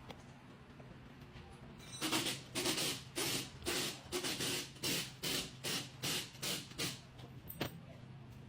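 Repeated scraping strokes on a workpiece, about two a second, starting about two seconds in and stopping about five seconds later, with one short stroke after them, over a steady low hum.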